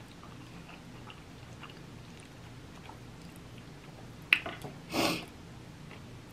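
Quiet, close-miked chewing of soft cooked ackee. About four seconds in comes a sharp click, then a brief scrape, as the wooden fork goes back into the food on the plate.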